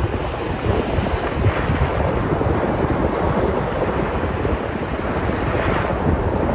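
Sea surf washing onto the shore, a steady rushing with waves swelling about a second and a half in and again near the end, and wind buffeting the microphone.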